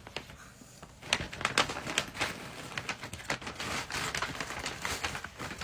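Packaging being opened: irregular crinkling and crackling of a parcel's wrapping, starting about a second in.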